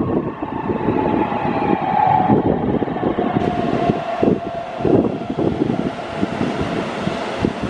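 Keihan 10000-series electric train approaching the platform as it slows, its motor whine slowly falling in pitch, with wind buffeting the microphone.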